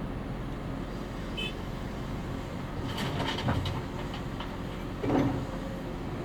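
CAT 330F excavator's diesel engine running steadily under work. A cluster of metallic clanks comes about three seconds in, and a heavier thud a little after five seconds is the loudest sound.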